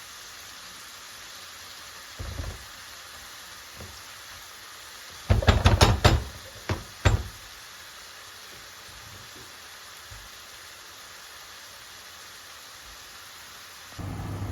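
Kitchen knocks: a faint bump about two seconds in, then a quick run of sharp knocks around the middle and two more just after, over a steady low hiss.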